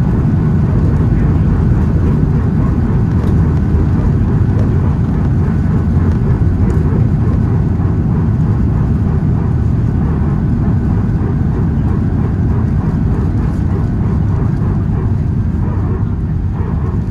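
Steady low rumble inside the cabin of an Airbus A319 airliner landing with its left engine failed, easing a little near the end.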